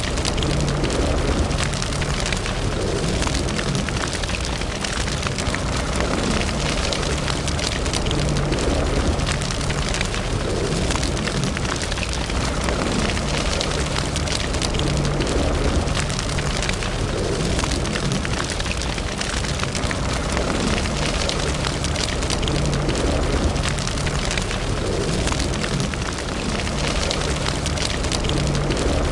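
Wood fire burning in a fireplace: a continuous run of small crackles and pops over a steady low rush of flame.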